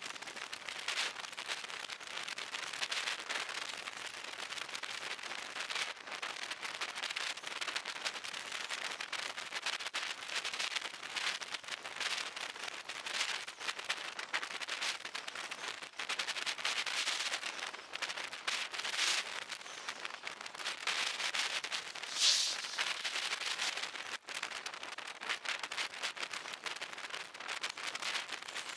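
Heavy thunderstorm rain: a steady, dense crackle of drops striking close by, with a few louder swells such as one about 22 seconds in.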